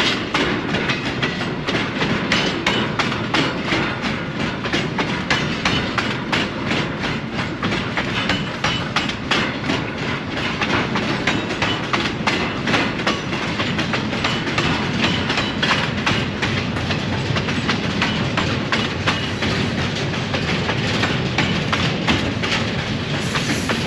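Train cars rolling past, their wheels clicking over the rail joints in a steady, fast clickety-clack.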